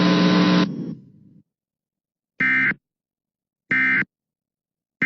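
A steady buzzing tone fades out in the first second, then short warbling data bursts of an Emergency Alert System end-of-message (SAME) signal sound, about 1.3 s apart, twice, with a third starting at the very end.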